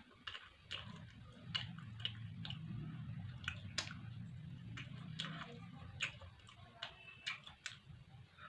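A person chewing food close to the microphone, with frequent sharp, irregular mouth clicks and smacks and a low rumbling undertone through the middle.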